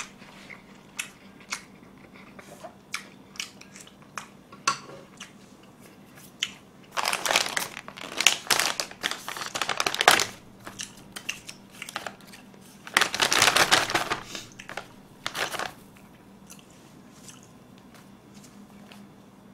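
Close-miked chewing of sauced fried chicken and Chinese noodles, with small wet mouth clicks, and two louder spells of crunching about seven and thirteen seconds in.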